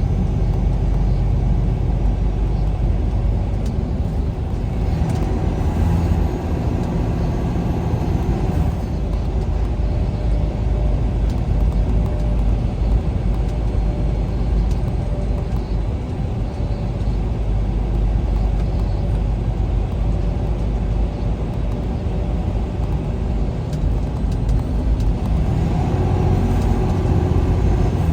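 Semi-truck driving at road speed, heard from inside the cab: a steady low engine and road rumble.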